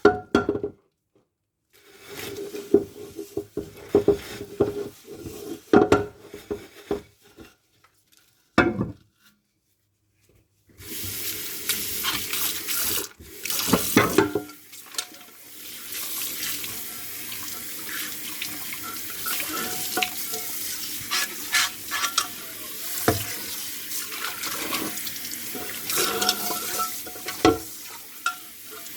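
Dishes being washed by hand at a sink: scrubbing and clinking, broken by two short silences, then about eleven seconds in a tap runs steadily with dishes knocking and clinking under the water.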